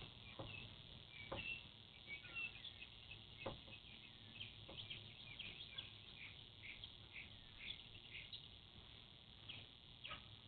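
Faint outdoor birdsong: scattered short chirps over a steady high insect or cricket trill. A brief sharp sound comes right at the start, and a few fainter ones follow.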